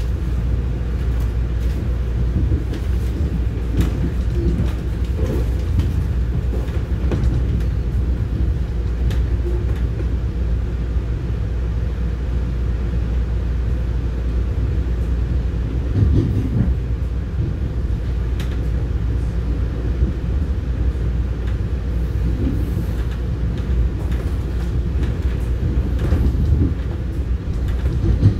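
Commuter train running, heard from on board: a steady low rumble with scattered knocks and clicks from the wheels on the track.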